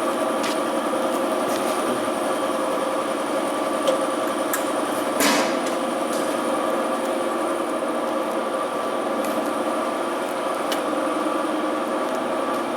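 A machine running with a steady droning hum, broken by a few sharp clicks or knocks, the loudest about five seconds in.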